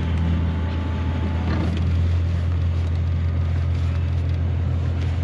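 Crab boat's engine running steadily, a low, even drone that holds at one pitch.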